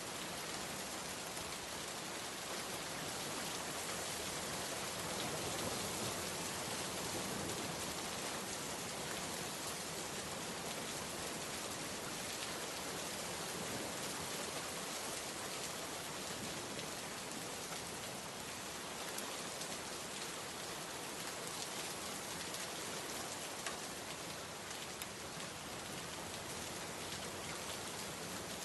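Steady heavy rain falling and pattering on surfaces, an even hiss with scattered drops.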